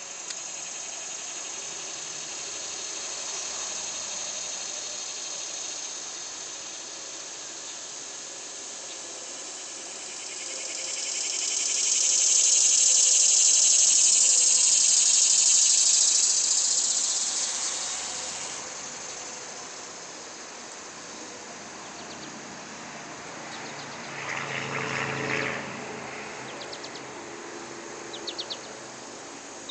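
Cicadas buzzing in chorus, a high droning hiss that swells to its loudest midway and then fades back. Near the end, a few short bird chirps.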